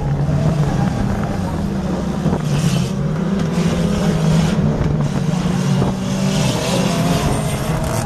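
Engines of banger racing cars running as they circle the track, a steady engine drone with little change in pitch.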